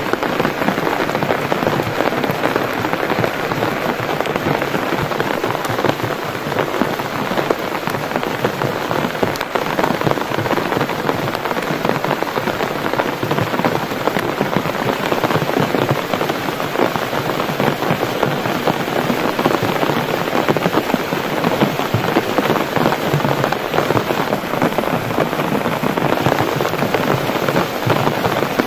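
Heavy rain falling steadily on a taut camping tarp, a dense, even patter of drops on the fabric.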